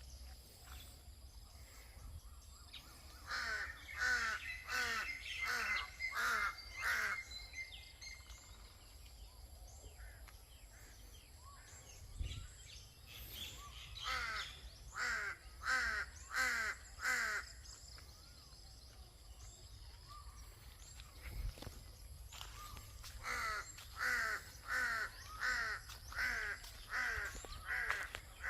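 A bird calling in three bouts of five to seven loud repeated calls, nearly two a second, with quieter pauses between the bouts.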